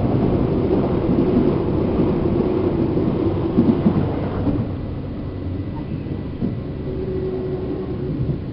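Running sound heard inside a Seibu New 2000 series electric train's motor car: steady rumble of wheels on the rails with a faint hum from the traction equipment.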